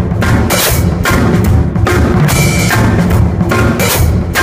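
Rock drum kit playing a fast swung groove: a swing pattern on the floor tom with bass drum and hi-hat, strokes coming at an even, quick pulse.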